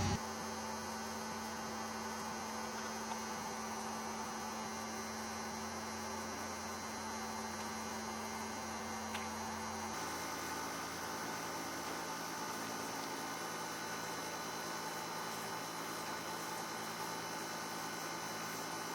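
A steady hum made of several constant tones, with no distinct events; its low tones shift about halfway through.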